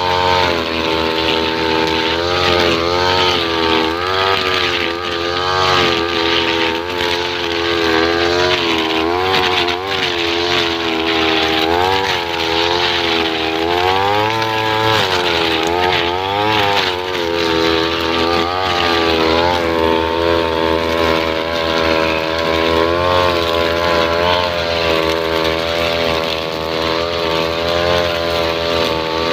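Two-stroke brush cutter with a nylon-line trimmer head running while cutting grass, its engine pitch repeatedly rising and falling as the line meets the grass.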